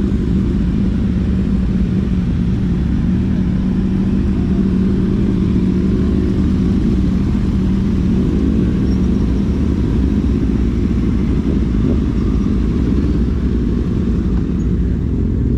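A motor vehicle running steadily: a loud, even low rumble with a steady drone, no revving.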